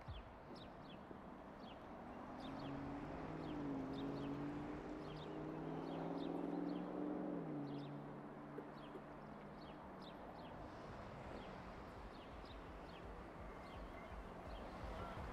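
Quiet outdoor ambience with small birds chirping again and again. From about two seconds in to about ten, a low vehicle engine hum sits underneath, shifting pitch a couple of times before fading.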